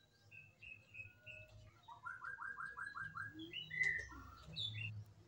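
Small birds chirping, with a quick run of about eight repeated notes about two seconds in, then a few higher chirps.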